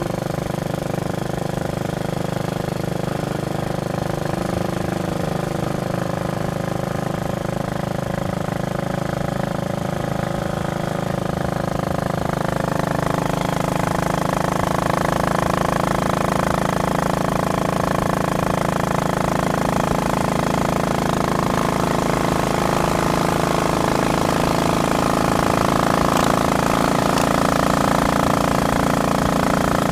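Royal Enfield Bullet Machismo 500's single-cylinder four-stroke engine running steadily under way, heard from on board the motorcycle. About halfway through it grows a little louder as it pulls harder.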